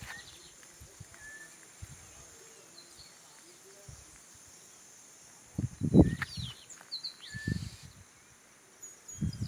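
Birds chirping faintly in short calls, with a few loud dull thumps about six and seven and a half seconds in and again near the end.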